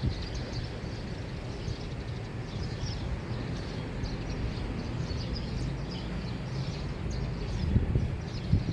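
Early-morning neighborhood ambience: a steady low rumble of distant traffic under many small birds chirping. A louder low swell comes near the end.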